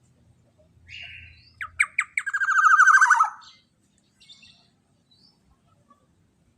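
Black-naped oriole (kepodang emas) calling: a harsh, squawking note, then a few sharp strokes and a loud, fast rattling trill that drops in pitch and stops about three and a half seconds in. A few faint short calls follow.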